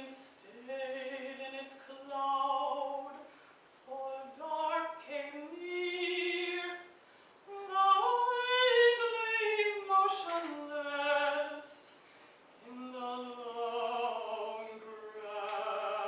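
Mezzo-soprano singing a slow classical art-song line in separate held phrases, with short pauses between them.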